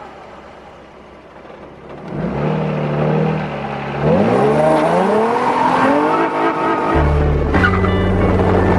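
A car engine is heard. It starts running steadily about two seconds in, then revs with its pitch rising from about four seconds in. Steady low music tones come in near the end.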